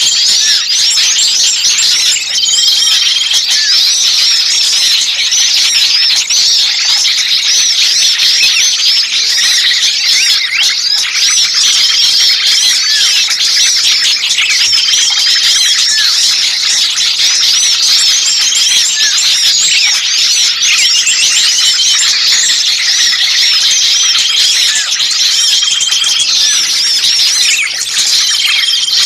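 A dense, noisy chorus of many small songbirds chirping and chattering at once, high-pitched and unbroken, with a short whistled note repeating every second or two. It is the agitated, screaming small-bird chorus played as a lure to draw in wild birds.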